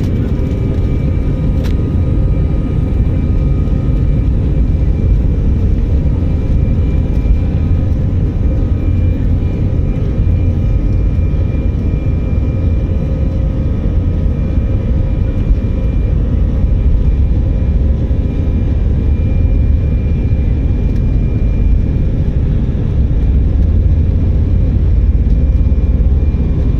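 Airbus A319 cabin noise: the jet engines and airflow make a loud, steady low rumble with faint steady whines above it, growing slightly louder near the end.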